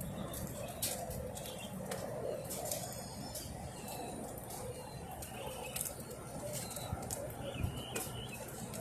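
Outdoor ambience with birds calling, short chirps coming now and then, over a steady low murmur, and scattered sharp taps throughout.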